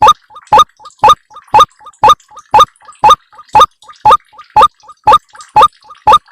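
White-breasted waterhen calls played as a bird-lure recording: a short, loud 'ruak' note repeated evenly about twice a second, with a fainter note between each.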